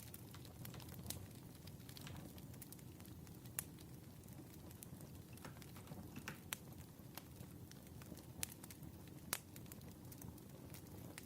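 Wood fire burning: a low, faint rumble with frequent small crackles and a few sharper pops.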